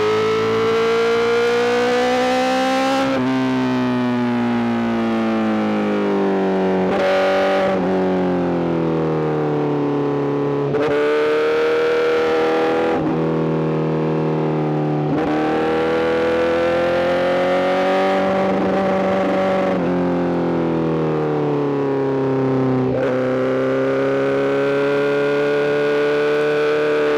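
Honda CBR1000RR-R SP inline-four engine through an Arrow full exhaust system, running under way. Its note slowly rises and falls with the throttle, broken briefly several times.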